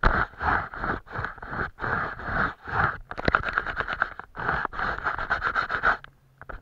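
Scratching strokes of an art tool on paper, picked up close: a run of short strokes that quickens to a rapid back-and-forth in the second half, then stops near the end.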